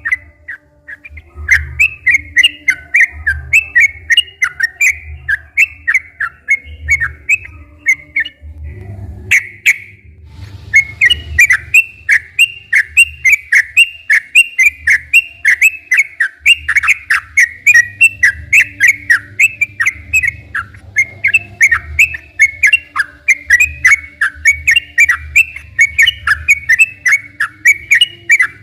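Yellow-vented bulbul (trucukan) singing continuously in long, rapid runs of short whistled notes, with a brief pause about eight seconds in.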